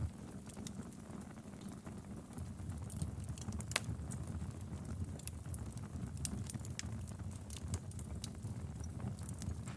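Wood fire burning with a low steady rumble and irregular crackles and pops, one sharper pop a little under four seconds in.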